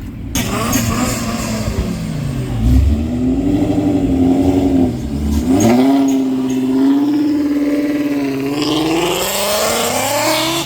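Ford Mustang Shelby GT350's V8 being revved hard. The revs climb about two to three seconds in and are held high, drop briefly around five seconds in, then are held high again and climb once more near the end.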